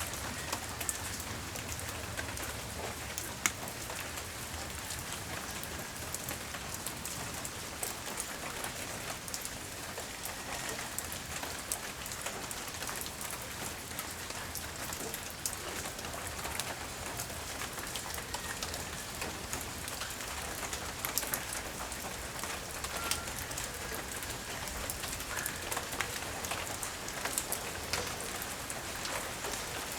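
Steady light rain falling during a tropical storm, an even hiss dotted with the small ticks of individual drops landing on nearby surfaces.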